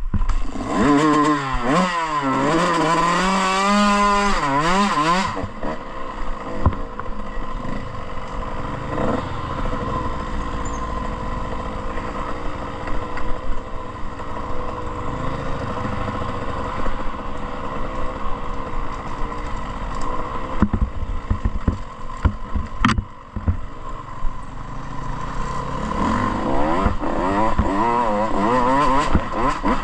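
Motocross dirt bike engine revving up and down hard through the first five seconds, then running steadier with a few sharp knocks around twenty to twenty-three seconds in, before revving hard again near the end.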